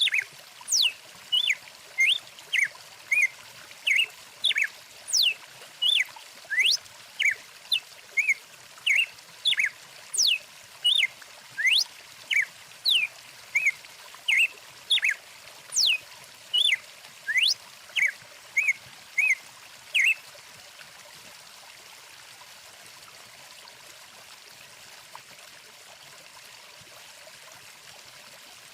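Birds chirping in quick short calls and rising and falling whistles, about two a second, over a steadily trickling stream. The birds stop about two-thirds of the way through, leaving only the running water.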